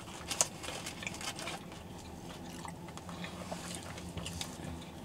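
People chewing and biting into fried chicken, with scattered crisp crackles and mouth sounds and a sharp click about half a second in.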